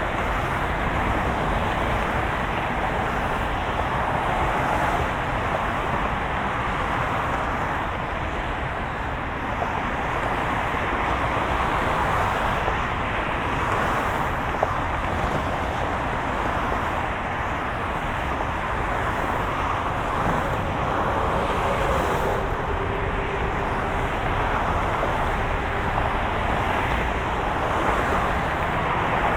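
Steady road noise of a moving car: a low rumble and hiss of tyres and engine, with a faint hum that fades in and out.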